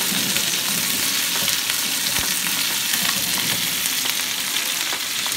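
Chicken wings sizzling and crackling steadily in butter in a frying pan, with the scrape of a spatula turning them.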